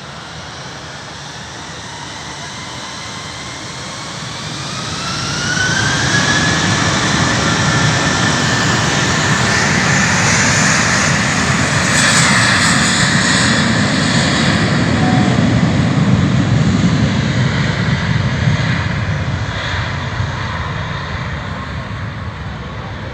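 Airbus A320 jet engines spooling up with a whine that rises in pitch and then holds, under a loud roar that swells and then slowly fades.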